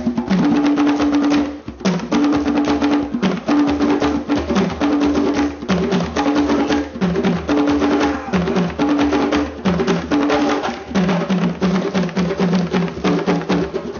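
African percussion music: drums played in a fast, dense, steady rhythm over a repeating low two-note figure.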